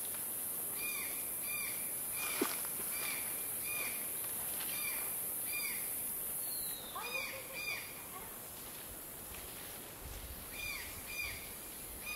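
Forest birds calling: a short, arched call repeated about twice a second, breaking off for a couple of seconds near the end before starting again, over a steady high hiss. A single sharp click about two seconds in.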